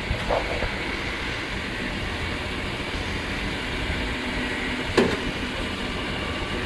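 Waste truck's engine running steadily, with a sharp clank about five seconds in.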